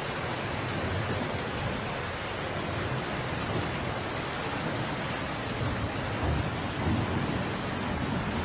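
Steady rushing noise of heavy rain and running floodwater, with slight swells in level about two-thirds of the way through.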